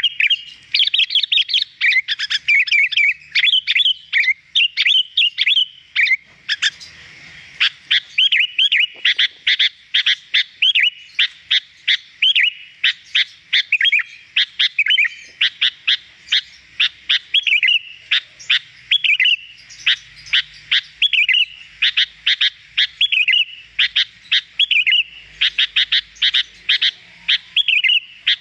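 Sooty-headed bulbul (kutilang) singing continuously in a rapid stream of chirps and short down-slurred whistles, with a brief lull about seven seconds in.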